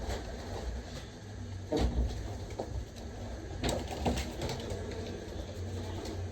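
A few dull knocks and bumps, about two seconds in and again near four seconds, over a low steady rumble.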